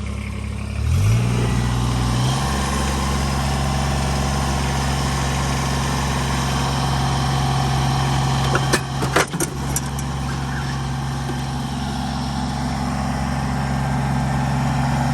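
Small tractor's engine running steadily as it lifts a car engine, its revs rising about a second in and then holding, with a few sharp knocks around nine seconds in.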